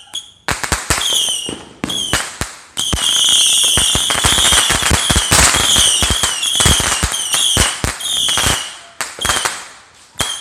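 Fireworks going off in a rapid barrage: many sharp bangs and crackles with a high whistling whine over them, densest from about three seconds in to about eight and a half seconds, then thinning to scattered bangs.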